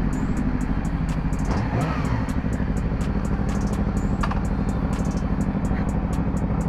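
Yamaha R6 inline-four sport bike engine running steadily at highway cruising speed, with steady wind noise.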